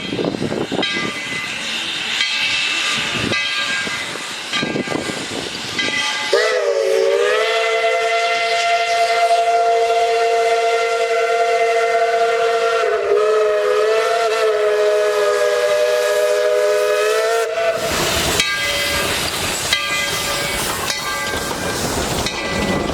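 Steam locomotive No. 12's whistle blowing one long blast of about eleven seconds, several notes sounding together as a chord, wavering briefly partway through. Before and after the blast there is steam hiss and the running noise of the train on the rails.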